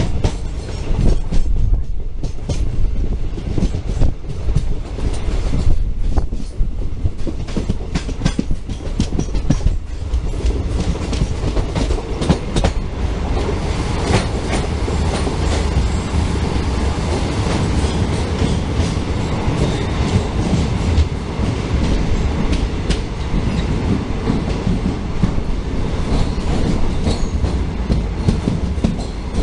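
Passenger train coach running at speed on the Konkan Railway, wheels clattering over the rail joints with a steady low rumble. About halfway through the train runs into a tunnel and the noise turns steadier and fuller, echoing off the tunnel walls.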